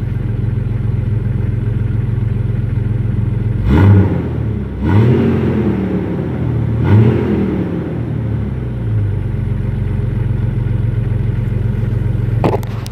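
2000 Jeep Grand Cherokee's 4.0-litre straight-six idling, then revved three times starting about four seconds in, each rev rising and falling back, settling to a steady idle by about nine seconds. A short click near the end.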